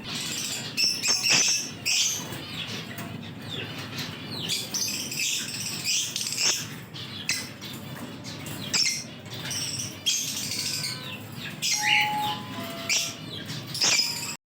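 Lutino lovebirds chattering: a continuous run of short, sharp chirps and squawks from several birds over a steady low background hiss.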